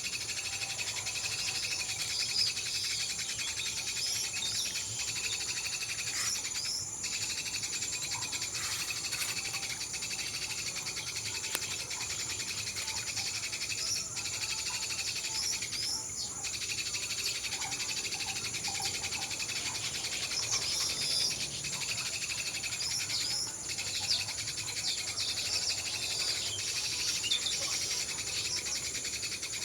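Weaver birds (manyar) chirping and chattering in many short calls, over a steady high buzzing drone.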